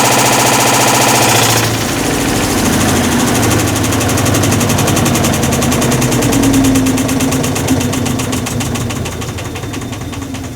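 Hitachi Beat Wash BW-D8KV washing machine making a loud abnormal mechanical noise from its failed clutch. After about a second and a half the sound changes to a rapid, even knocking that slowly fades.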